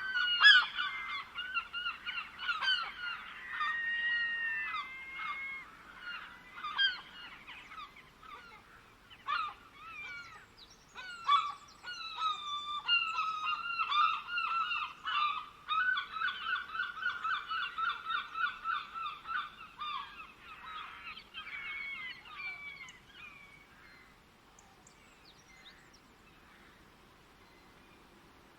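Several birds calling and chattering over one another, with a fast run of repeated notes in the middle. The calls thin out and stop about three-quarters of the way through, leaving only faint background.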